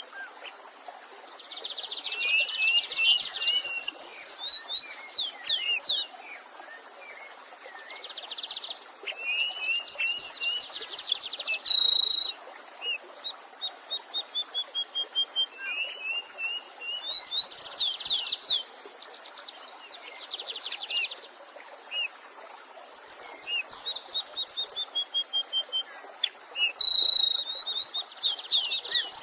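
Songbirds singing: phrases of rapid, high chirping notes and trills come every five to seven seconds, with quieter runs of evenly spaced notes between them, over the faint steady rush of a stream.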